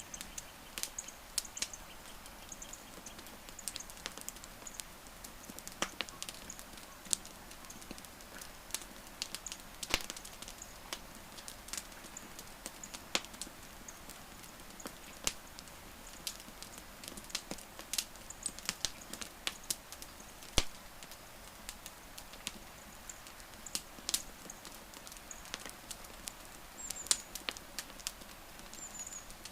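Wood campfire crackling: irregular sharp snaps and pops over a soft steady hiss, a few of the pops much louder than the rest. Short high-pitched chirps come now and then.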